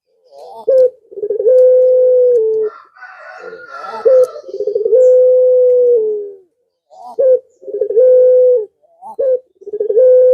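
Male puter pelung dove cooing, the male's call to a female. Several calls, each a short rising note followed by a long steady coo about a second long, repeating every few seconds.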